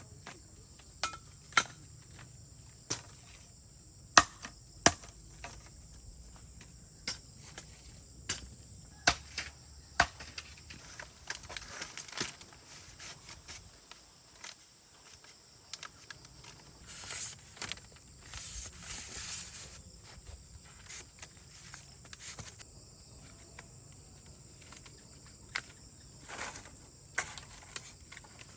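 Scattered sharp knocks and taps, irregular and a few seconds apart, over a steady high insect drone, with a couple of brief rustling stretches a little past halfway.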